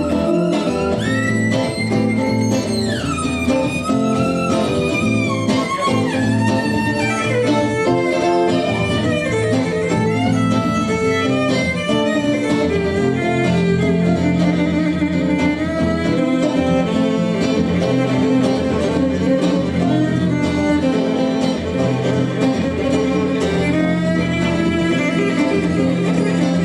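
Violin and guitar playing instrumental music together; the violin slides down between notes in the first few seconds over the guitar's accompaniment.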